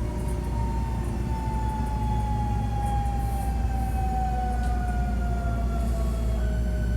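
Hankyu 1300 series electric train's motor whine gliding slowly down in pitch over the low rumble of the car running on the rails, as the train loses speed. This car is one singled out for an unusual running noise.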